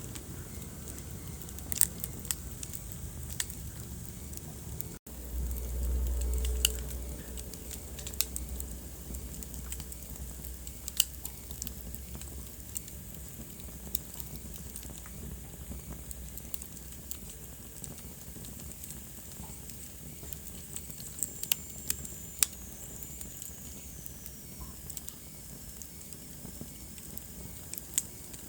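Wood fire crackling in a fireplace: scattered sharp pops and snaps over a steady hiss. About five seconds in the sound cuts out for an instant, then a low rumble runs for about two seconds. Later a faint high whistle slides down in pitch.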